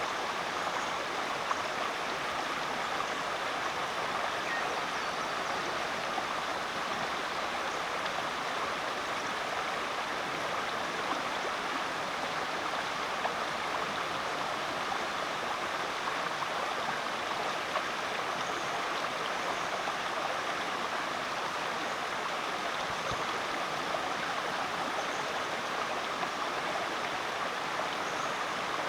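A rainforest creek flowing over rocks: a steady rush and babble of running water.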